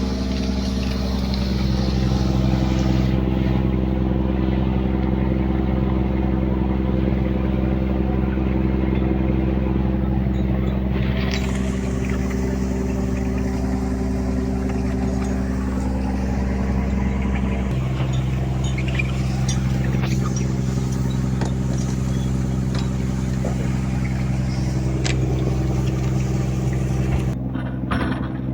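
Fishing boat's engine running steadily, its note shifting about a second in and again about 18 seconds in.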